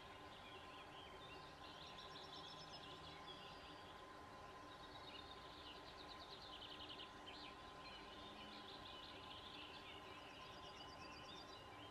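Quiet open-country ambience with small birds singing faintly in rapid trills and chirps, over a faint steady hum.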